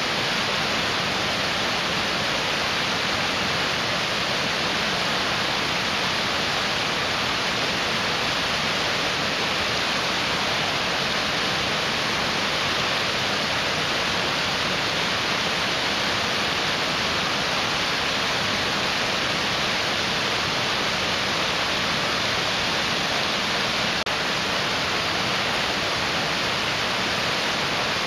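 Mountain stream rushing steadily, a dense even roar of fast water.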